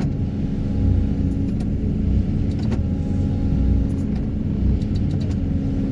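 Heavy excavator running steadily, heard from its cab: a continuous low machine hum with a few faint clicks.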